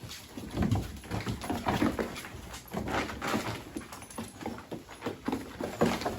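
Mini Goldendoodle puppies play-fighting, with small growls and whimpers over irregular scuffling and knocking.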